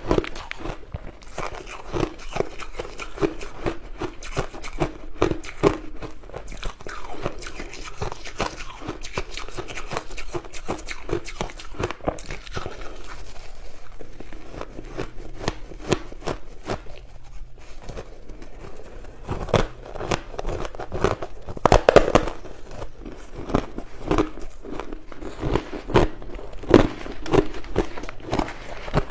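Crushed ice being bitten and chewed close to the microphone: a dense, irregular run of crisp crunches and crackles, louder for a few bites about twenty seconds in and again near the end.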